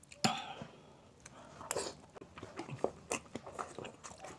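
Close-miked eating of peeled quail balut: wet chewing and biting with irregular sharp clicks and smacks, the loudest a little after the start.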